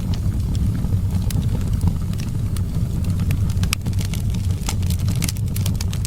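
Wood fire crackling, with sharp pops scattered through and more of them in the second half, over a steady low rumble of wind.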